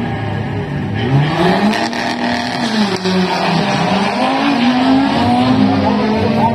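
Two street cars accelerating hard from the start of a drag strip, their engines revving up and dropping in pitch at each gear change as they pull away.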